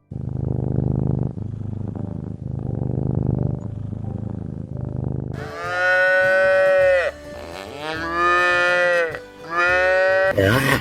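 Cattle mooing: a run of low moos, then from about five seconds in three louder, higher-pitched drawn-out moos, each falling in pitch at the end.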